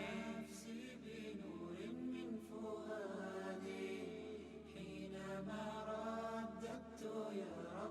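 Wordless chanted vocal backing of a naat, sustained voices over a low steady drone, quiet and fading.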